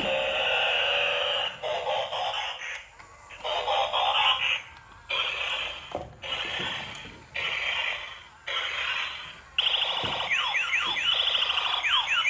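Electronic toy sound effects from a small built-in speaker, coming in several bursts with short gaps between them, then a quick run of repeated falling chirps near the end.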